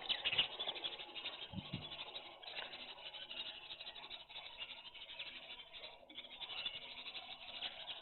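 A flock of pigeons and small birds eating grain: a steady scratchy run of pecking clicks with chirping, and two short low pigeon-like notes about a second and a half in.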